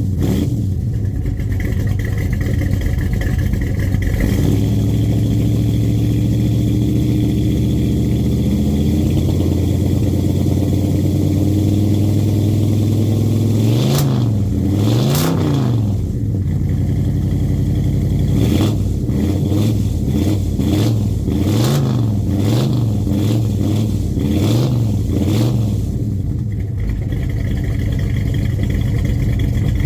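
Car engine running at a steady idle, its pitch creeping up slowly, then revved in short throttle blips: two about halfway through and a run of about six quicker ones later, before settling back to idle.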